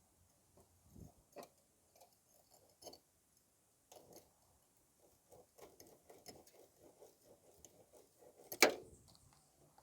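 Scattered light clicks and taps, picking up into a quick run of faint ticks midway, with one sharp, much louder knock near the end.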